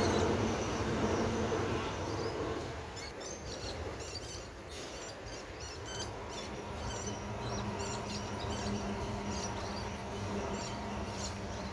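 Birds chirping repeatedly in short calls, after a low rumble fades out about two and a half seconds in. A faint steady hum sets in about halfway.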